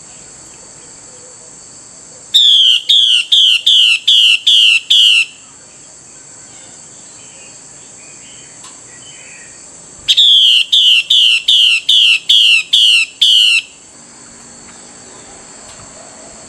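Female Chinese hwamei (Hwamei laughingthrush) giving her call to the male: two loud runs of about seven sharp falling notes, roughly three a second, a few seconds apart. A steady high insect buzz runs underneath.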